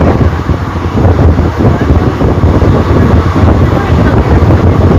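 Running noise inside a non-AC general coach of an Indian express train under way: a steady low rumble of the wheels on the rails with wind rushing in through the open windows and over the microphone, and people talking under it.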